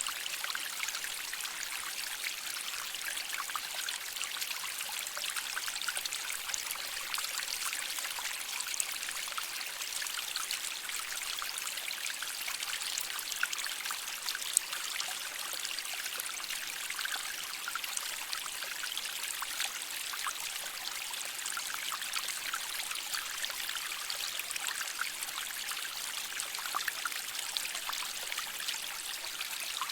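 Shallow stream water flowing and trickling over rocks: a steady, bright babble with many small splashes.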